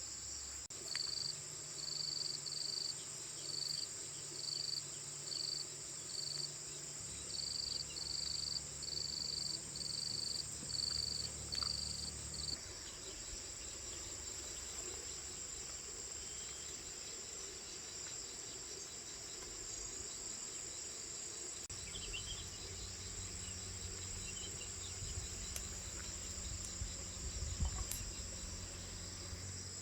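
Insects chirping: a steady high drone, with evenly spaced chirps about once a second for the first twelve seconds. A low hum comes and goes underneath.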